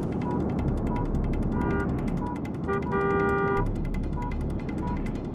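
Crashed cars' horns and warning beeps: a high electronic beep repeats about every two-thirds of a second over rapid clicking, and a horn sounds briefly about two seconds in, then longer at about three seconds.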